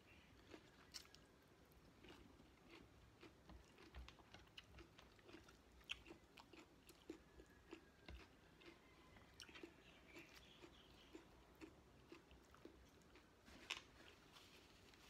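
Faint close-up chewing of a mouthful of chicken and rice: soft wet mouth clicks and smacks at about two a second.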